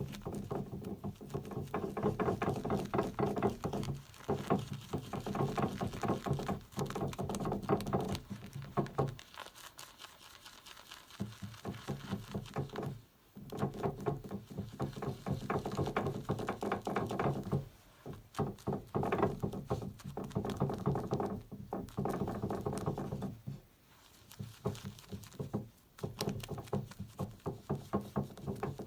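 Synthetic shaving brush swirling and whipping shaving soap into lather in a shaving scuttle: quick wet squishing and ticking strokes in bouts, with a few brief pauses.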